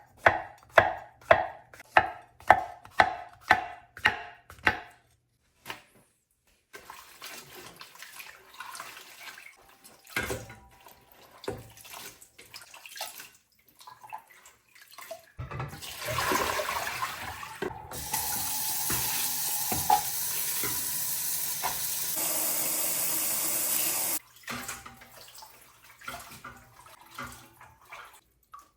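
A knife chopping on a cutting board, about two even strokes a second, for the first five seconds. After some quieter handling, a kitchen tap runs into the sink for about nine seconds and is shut off abruptly.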